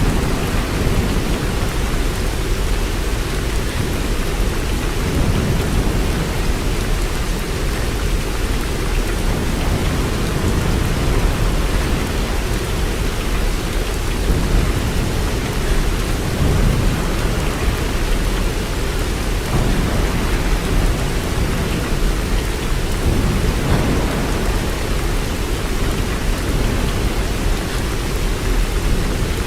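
Steady heavy rain falling, with a deep low rumble underneath that swells and fades.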